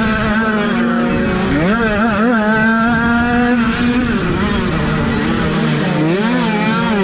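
Small 50cc minicross motorcycle engines running hard, their pitch swooping up and down as the throttle is opened and closed, with more than one bike heard at once.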